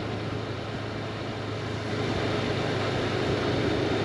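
Honda CB500X motorcycle's parallel-twin engine running steadily under an even rush of wind noise, growing slightly louder about two seconds in.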